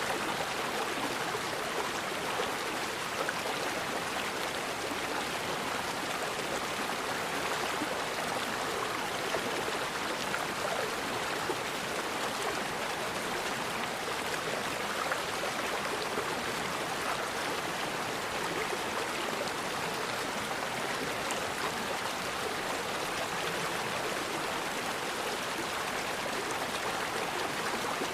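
Forest river flowing, a steady rush of water with small splashes and trickles running through it.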